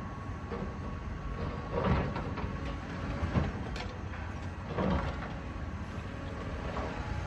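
Heavy demolition machinery, such as an excavator, running with a steady diesel rumble, with three louder crunching knocks about a second and a half apart as debris is broken and moved.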